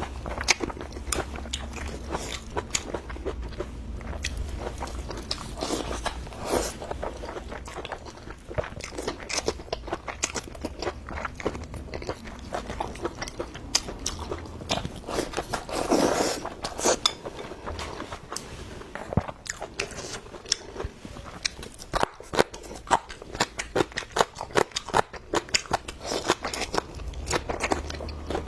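Close-miked mouth sounds of someone eating: chewing with many sharp, rapid crunches and clicks, louder for a moment about halfway through.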